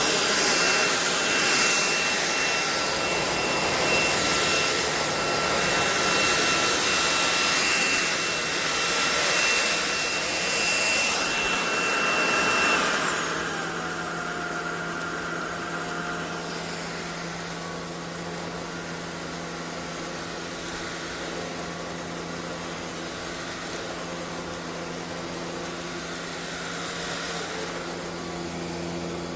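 SunSare X11 cordless stick vacuum running, a loud steady whoosh with a high whine. About 13 seconds in, the pitch glides down and the vacuum settles into a quieter, lower hum.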